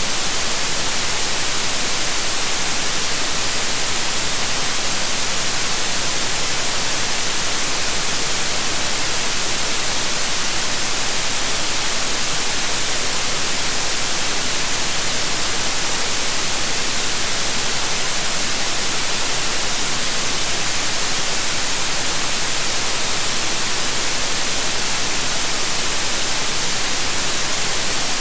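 Steady, unchanging white noise: an even hiss across the whole range, with no rhythm or events.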